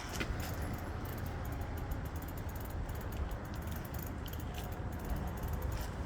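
Outdoor street background: a steady low rumble, like wind on the microphone and distant traffic, with faint scattered light clicks and rattles.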